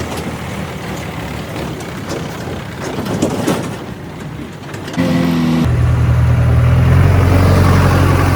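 Heavy diesel engine running, changing abruptly about five seconds in and then running louder and steadier.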